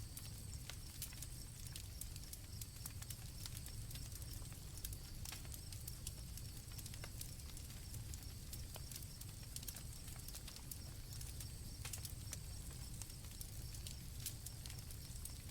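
Campfire crackling, with scattered sharp pops over a low steady rumble, and crickets trilling at a high steady pitch that comes and goes.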